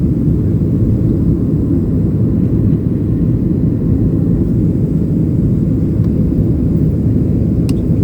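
Boeing 737-800 in flight, heard from inside the cabin: a steady, loud low rumble of engines and airflow. One short click comes near the end.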